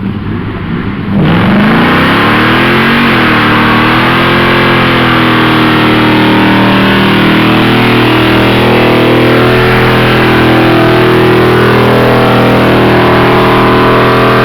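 Car engine suddenly gets loud about a second in, its pitch rising, dipping and rising again as it accelerates, then running at a fairly steady speed.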